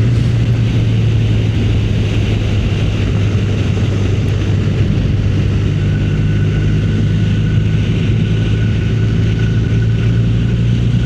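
Motorcycle engine running at a steady cruise, heard from the bike, a constant low drone with no revving. A faint high whine joins it about halfway through.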